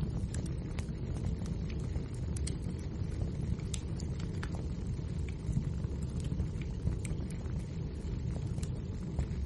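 Wood fire burning in a fireplace: a steady low rumble of the flames with frequent, irregular sharp crackles and pops from the logs.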